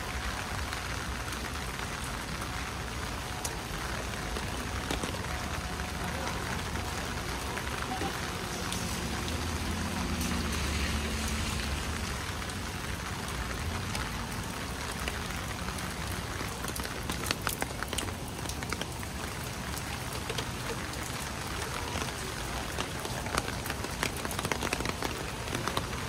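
Steady rain falling, with scattered sharp drip taps throughout. A low hum swells briefly near the middle.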